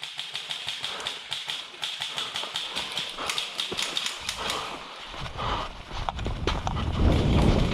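Quick, rhythmic footsteps of a player running over the woodland floor, with gear clattering in step. A low rumble builds over the last few seconds.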